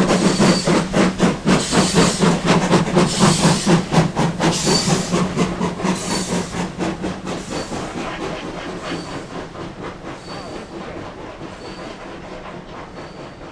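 Steam locomotive working a train past, its exhaust beating rapidly at about five beats a second. The beats fade steadily as the train draws away.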